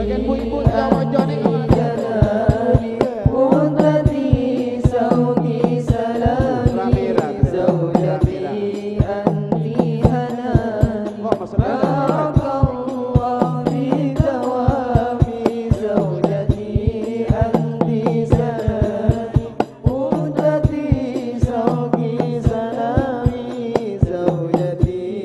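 Hadroh ensemble playing: rebana frame drums strike a steady, dense rhythm with the deep tam bass drum, under chanted group singing.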